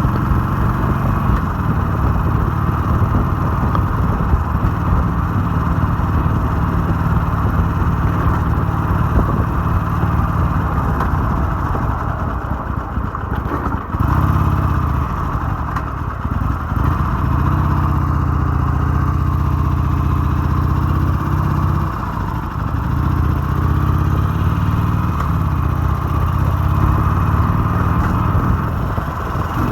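Harley-Davidson 883's V-twin engine running while the bike is ridden. Its pitch dips about halfway through, then climbs again, and changes once more a little later.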